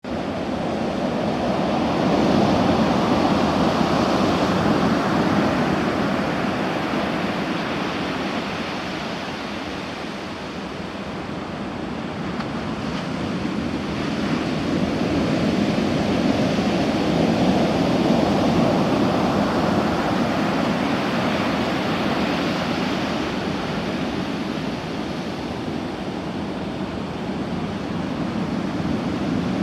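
Heavy surf from a typhoon swell breaking on the beach: a continuous rush of waves that swells and eases in long, slow surges, peaking about every fifteen seconds.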